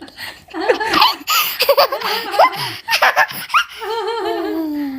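High-pitched laughter in bursts, ending in a drawn-out laugh that falls in pitch near the end.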